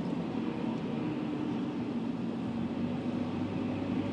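Steady hum of a car running, heard from inside its cabin.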